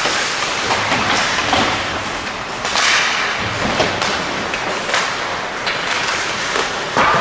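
Ice hockey play on a rink: skates scraping the ice and sticks and puck clacking, with scattered sharp knocks and thuds against a steady arena noise.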